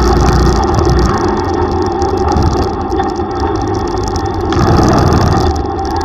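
Motorcycle engine running under way, with steady road and wind noise; it swells briefly for about a second near the end.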